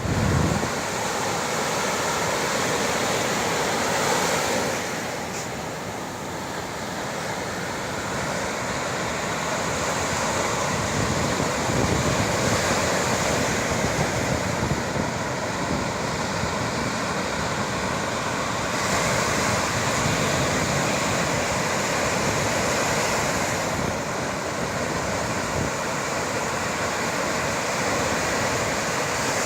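Sea surf breaking on the shore: a continuous rushing wash that eases for a few seconds and swells again.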